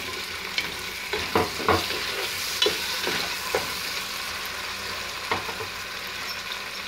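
Chopped tomatoes and sliced red onions sizzling in hot oil in a pot, stirred with a wooden spoon that scrapes and knocks against the pot several times.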